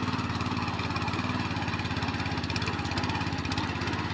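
Tractor engine running steadily at an even speed while ploughing a field, a rapid, even chugging with no change in pace.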